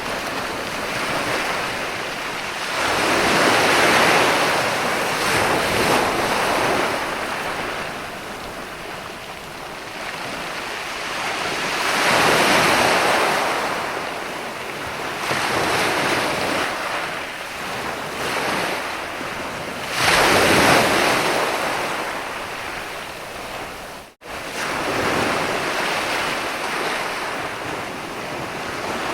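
Sea waves breaking and washing up onto a beach. The rush swells and ebbs every few seconds, and the sound cuts out for an instant late on.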